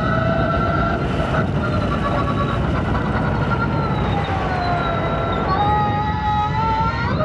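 The SIERRA Echo's engine running hard at high revs, its pitch holding steady, sagging about four to five seconds in, then jumping up and climbing again near the end as the car accelerates. A rough rumble of tyres on dirt runs underneath.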